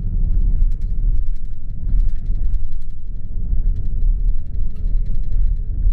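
Tour coach driving on a country road, heard from inside the passenger cabin: a steady low engine and road rumble.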